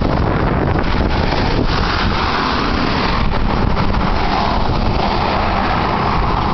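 Strong storm wind buffeting the microphone: a loud, steady rush with a heavy low rumble.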